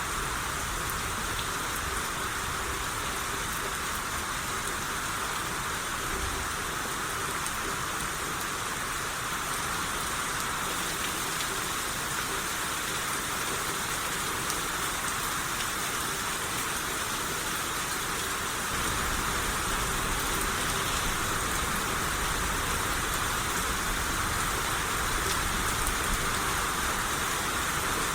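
Steady rain falling in a dense, even hiss, with a low rumble that steps up about two-thirds of the way through.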